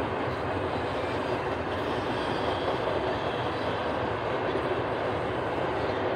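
Doublestack intermodal train's container cars rolling past, their steel wheels running on the rails in a steady, unbroken noise.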